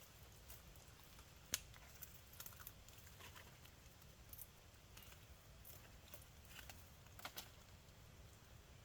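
Near silence with scattered faint clicks and light knocks, one sharper click about a second and a half in and a few more together near the end.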